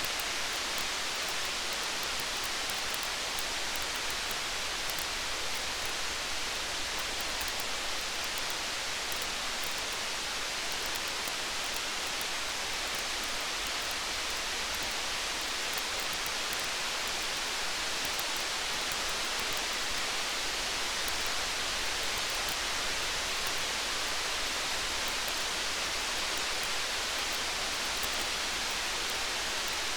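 Steady, even hiss of rain falling, with faint scattered ticks of a campfire crackling through it.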